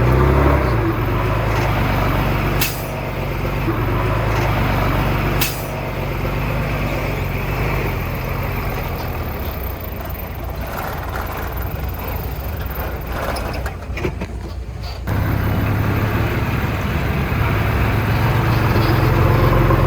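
Heavy diesel engine of earthmoving machinery running steadily. Two short sharp clicks or hisses come about 3 and 5.5 seconds in. The engine drops quieter for several seconds, then rises louder again about 15 seconds in.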